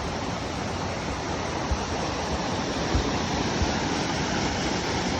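Steady rush of falling or flowing water, with a few soft low thumps on the microphone.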